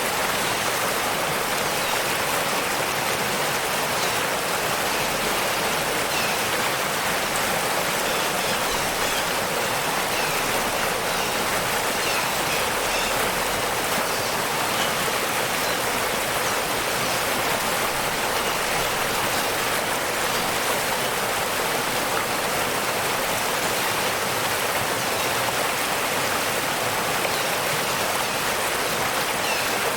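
Steady rushing of falling and running water, a waterfall and stream, even and unbroken throughout.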